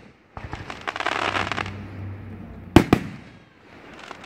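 Aerial fireworks: a spell of dense crackling starting about half a second in, then two sharp booms close together about three seconds in.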